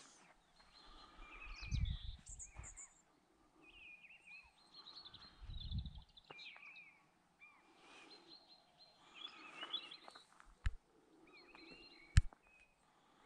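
Small wild birds singing and chirping, many short calls in quick succession. There are two brief low rumbles about two and six seconds in, and a sharp click near the end.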